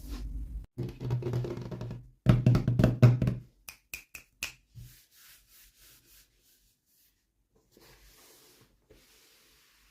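Small plastic toy pieces and packaging handled during an unboxing: a flurry of quick clicks and taps over the first few seconds, then a few single clicks, then near quiet.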